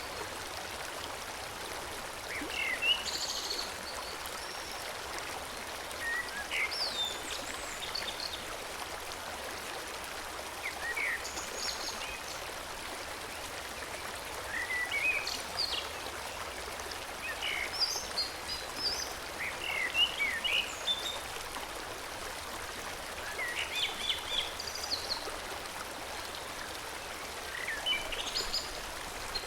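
Forest stream flowing steadily, with a songbird singing short phrases of quick chirps every few seconds over the water.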